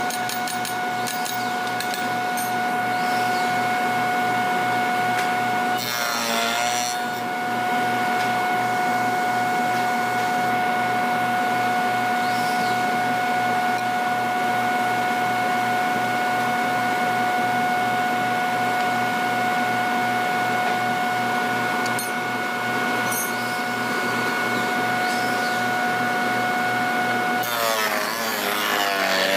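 Woodworking power tool running with a steady high whine, cutting or working wood with a rough rasping noise; the pitch briefly dips about six seconds in and swoops again near the end.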